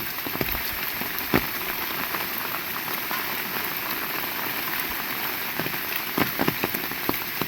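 Heavy rain falling steadily, with a few sharper single hits: one about a second and a half in and several more near the end.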